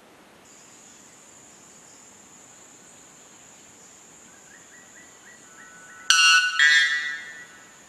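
White bellbird giving its very loud call, two ringing notes about six seconds in that stop after about a second and a half, over a steady thin high tone in the background.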